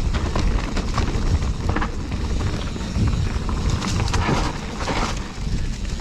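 Mountain bike rolling over a rough trail: a steady low rumble of tyres and wind on the microphone, with many sharp knocks and rattles from the bike over rocks and roots.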